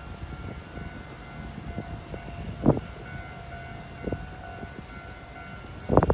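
Train at a railway station: a steady low rumble under a held steady whine, with single knocks about halfway and a quick run of knocks near the end.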